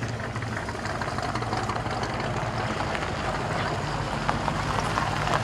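Car engine idling steadily, with a low even hum of engine tones.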